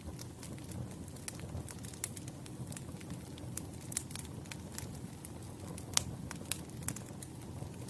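Campfire of burning wood crackling: a steady low rumble of flames with sharp irregular pops and snaps, the loudest snap about six seconds in.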